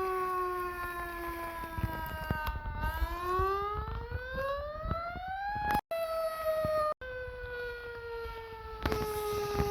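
Fire engine siren wailing: the pitch slides slowly down, climbs back up for about three seconds, then slides slowly down again. The sound cuts out for an instant twice near the middle, over a low engine rumble.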